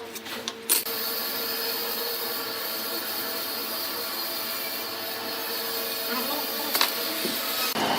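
Woodworking power tool running with a steady hiss and a faint hum, a few clicks in the first second and a sharp click near the end, after which it turns to a rougher scraping of tool on wood.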